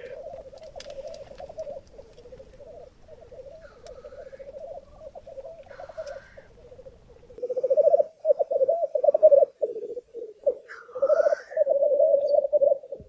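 Male black grouse at a lek giving their bubbling, cooing display song in a continuous rolling chorus, growing louder about halfway through, with a few short, higher, rising hissing calls mixed in.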